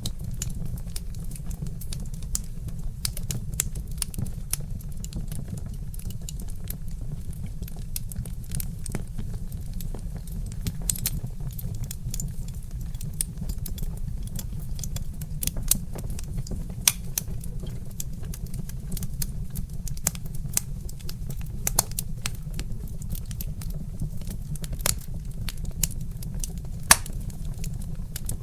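Wood fire crackling: irregular sharp snaps and pops from burning logs, a few louder than the rest, over a steady low rumble.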